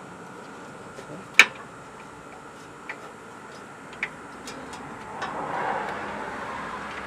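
Scattered sharp metallic clicks from a socket and extension being turned by hand to thread a starter bolt, one much louder about one and a half seconds in. A stretch of softer scraping noise follows later on.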